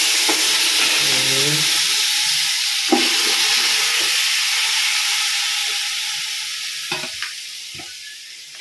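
Marinated chicken sizzling in hot oil in a cooking pot: a loud, even sizzle that slowly dies down. A few short clinks of a spatula against the metal come through it.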